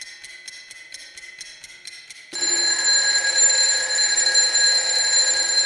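Emergency alert tones breaking into a broadcast. A rapid electronic beeping, about five beeps a second, is followed about two seconds in by a much louder steady electronic alert tone made of several fixed pitches. This is the alarm signal that announces an emergency alert.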